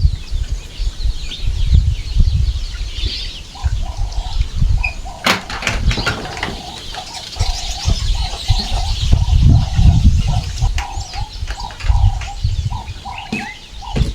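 Chickens calling in short repeated notes, with small birds chirping, over gusts of wind rumbling on the microphone; one sharp click about five seconds in.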